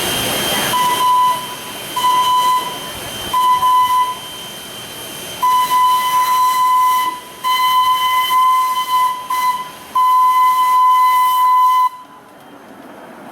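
Steam locomotive whistle on Strasburg Rail Road engine 89, a 2-6-0, sounding a series of single-pitched blasts: three short toots, then several longer ones, the last held about two seconds. Steam hisses at the start, before the first blast.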